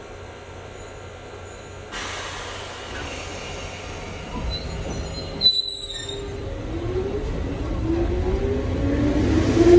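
Nankai 2200-series train heard from inside the carriage, its running noise growing louder over the rails. It is briefly sharp and broken about halfway. In the last few seconds a whine climbs steadily in pitch as the train gathers speed.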